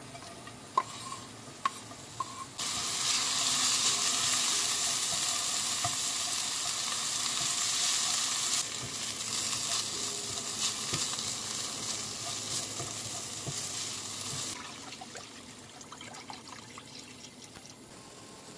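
Chopped green onions frying in hot oil in a pot, with a spoon stirring them and chili flakes: a loud, steady sizzle that starts suddenly a few seconds in, eases off partway through and dies away well before the end. Before it, a few sharp clicks as the onions are scraped off a wooden cutting board into the pot.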